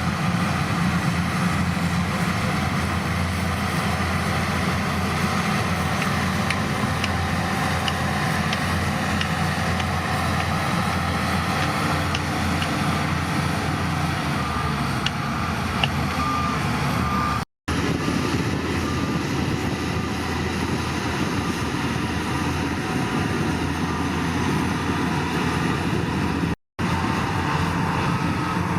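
Heavy diesel machinery running steadily, with a reversing alarm beeping in short repeated tones from about halfway through and more clearly near the end. The sound drops out completely twice for a split second.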